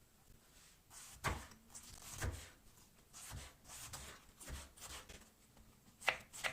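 Quiet handling sounds: light rustling broken by a few sharp clicks and knocks, the loudest a little over a second in and two more near the end.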